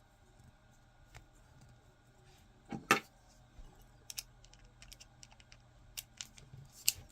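3D-printed plastic parts clicking and tapping as they are handled and fitted together, with a louder double knock about three seconds in.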